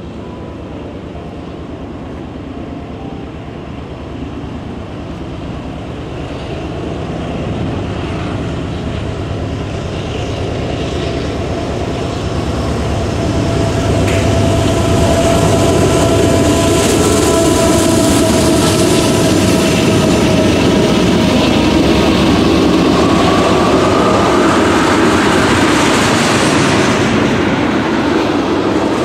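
Freight train led by two GE AC44C6M diesel locomotives approaching and passing, getting louder as the locomotives near, then the loaded tank cars rolling by.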